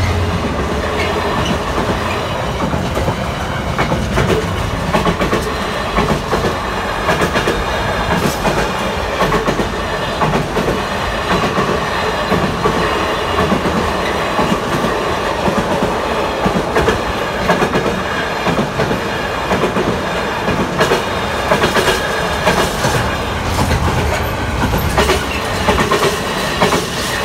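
Freight train wagons rolling past close by: a continuous rumble, with repeated clicking of the wheels over rail joints.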